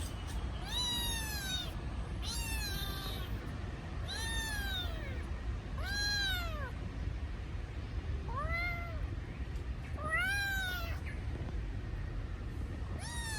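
A kitten crying with high meows, about seven in all, one roughly every two seconds. Each meow rises and then falls in pitch. The crying is a kitten calling for its missing mother.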